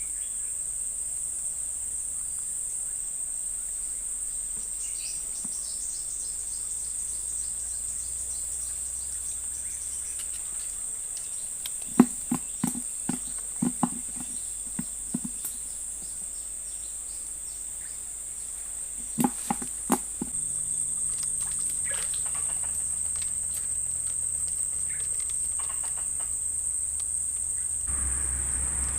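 Steady high-pitched drone of insects. Two short clusters of sharp knocks stand out, a little under halfway through and again about two-thirds of the way in.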